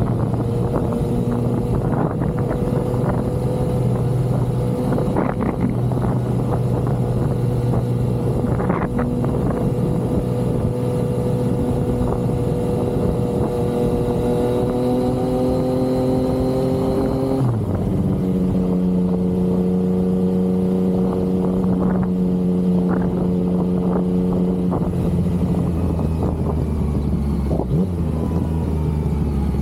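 Yamaha XSR900's inline-three engine under way at steady throttle, its pitch creeping up slowly. About two-thirds of the way through the pitch drops sharply at a gear change, then holds lower, and it falls away near the end as the bike slows.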